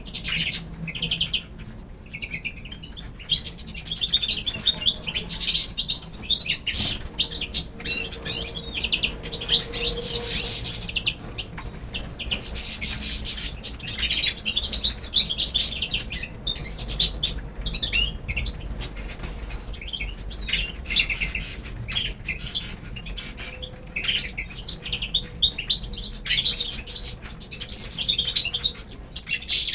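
Pet birds chirping and twittering almost without a break, many short high calls overlapping, with scattered clicks among them.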